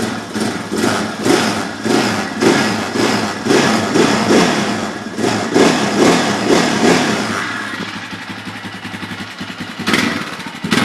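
Single-cylinder ATV engine running cold, its sound swelling and fading about two to three times a second. It drops quieter for a couple of seconds near the end, then comes back loud.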